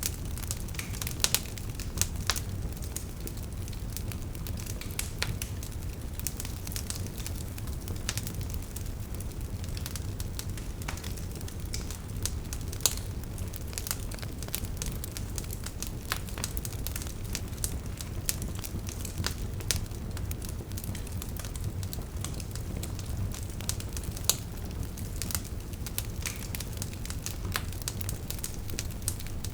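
Wood fire burning, logs crackling with irregular snaps and pops over a steady low rumble of flame.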